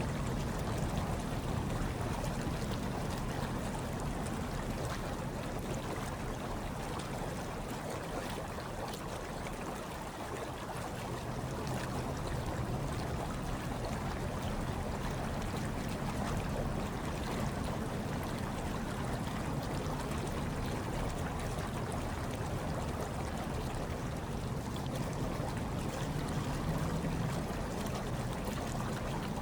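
Hot tub water bubbling and churning steadily, a continuous watery wash with a low rumble underneath.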